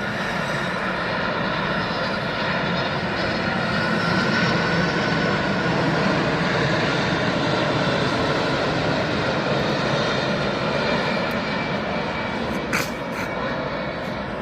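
Jet engines of a Boeing 767 freighter on landing approach as it flies past: a steady rushing noise with a high whine that grows louder over the first few seconds and eases a little near the end. A brief click sounds near the end.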